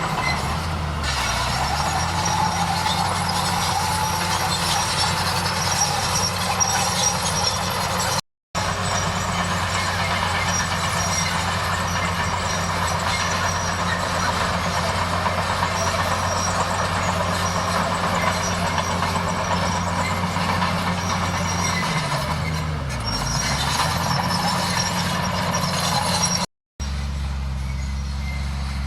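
Bulldozer's diesel engine running steadily under a high hiss. The engine note dips and recovers about a second in, and again around 22 seconds in. The sound cuts out for a split second twice.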